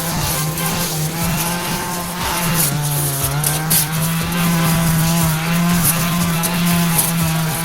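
Brush cutter engine running at high revs with a steady pitch that dips briefly about two and a half seconds in, then holds.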